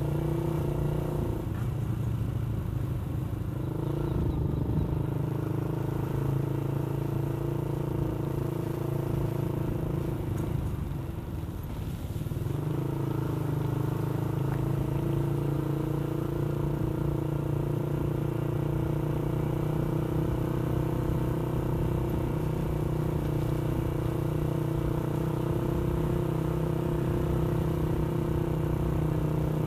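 Motorcycle engine running steadily while riding, easing off for a moment about eleven seconds in, then picking back up.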